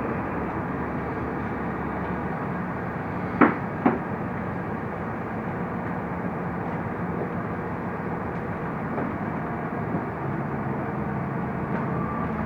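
Mercedes-Benz O345 Conecto LF city bus running along the road, a steady engine and road noise heard from inside the cabin. Two sharp knocks about half a second apart come a little over three seconds in.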